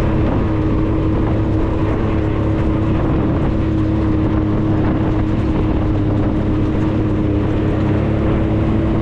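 Off-road vehicle's engine running at a steady pitch while driving up a dirt road, a constant drone over a low rumble.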